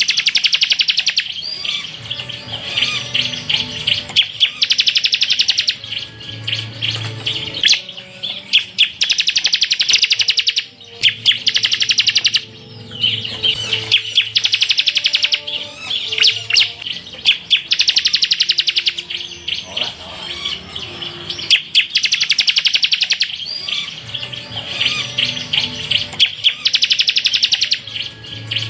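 Ciblek (bar-winged prinia) singing fast, rattling trilled bursts, the 'tembakan' song used for masteran, one burst after another with short pauses between them.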